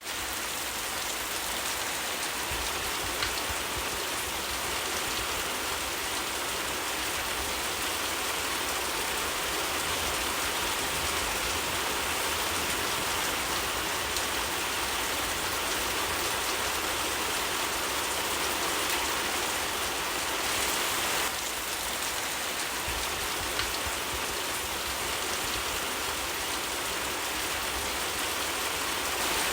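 Steady rain falling on a surface, an even continuous hiss, with a few faint pops here and there.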